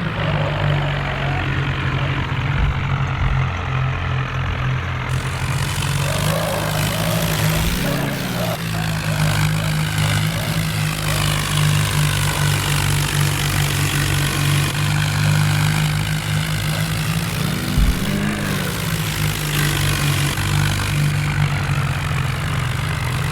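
Tractor diesel engine running steadily under load, its pitch rising and falling briefly twice, about eight and eighteen seconds in. A steady hiss sits over it from about five seconds in.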